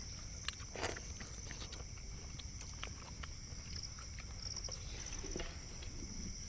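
Steady high-pitched chirring of insects, with a faster pulsed trill about four to five seconds in. Scattered light clicks and taps, and a brief clatter about a second in.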